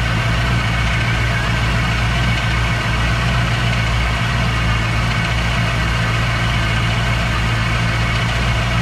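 A 1964 Chevrolet Impala's V8 idling steadily, with no revving. It runs in idle while the freshly rebuilt 350 automatic transmission is filled with fluid.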